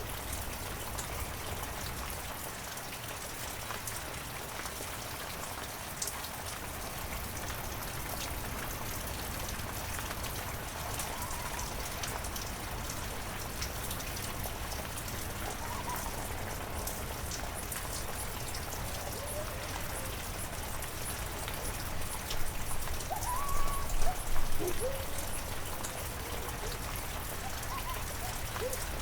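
Heavy rain falling steadily, with many individual drop hits over an even hiss. Several short sounds glide up and down in pitch; they are loudest about 22 to 25 seconds in.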